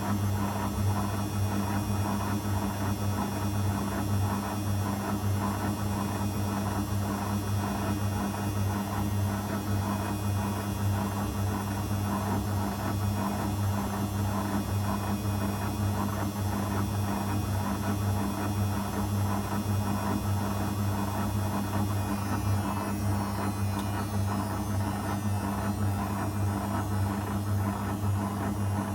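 Zanussi FL984CN washing machine running a 35° wash cycle: a steady hum. A faint high whine in it drops out about three quarters of the way through.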